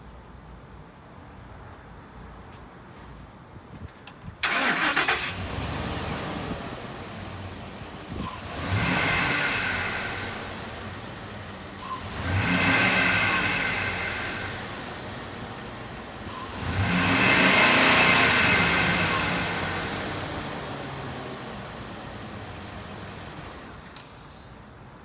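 2011 Ford F-250 engine started about four seconds in, catching at once, then idling and revved three times, each rev rising and settling back to idle. It shuts off near the end.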